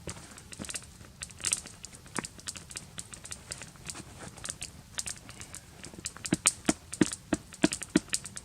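Newly lit campfire kindling crackling and popping as it catches, the sharp pops coming thicker and louder near the end.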